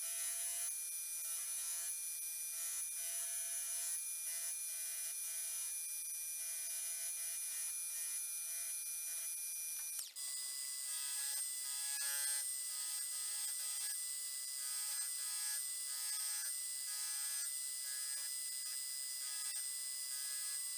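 Milling machine spindle spinning a buffing wheel, a steady electric motor whine with a faint rubbing hiss as resin handle scales are polished against the compound. The sound breaks off about halfway through and resumes at a slightly different pitch.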